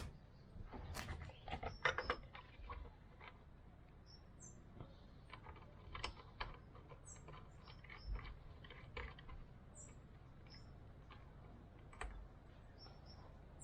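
Irregular light clicks and taps of small metal parts and tools being handled, with a cluster of sharper knocks in the first two seconds.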